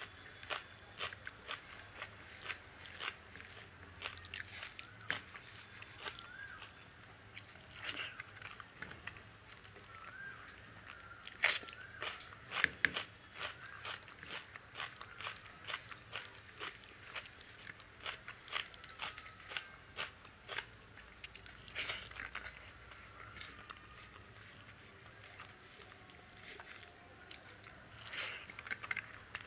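Close-up eating sounds: chewing and biting as dal, rice and vegetables eaten by hand are mouthed, with many sharp, crunchy clicks and a few louder ones about 11 and 13 seconds in.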